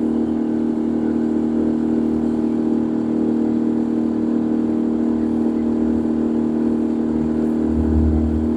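Boat engine running at a steady speed, a constant hum with a low throb that swells and fades.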